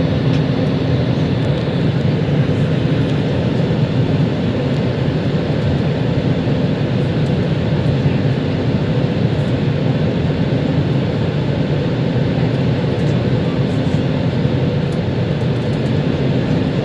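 Steady cabin drone inside a British Airways Airbus A320 as it taxis after landing: engine and air-system hum with a few steady low tones underneath, unchanging throughout.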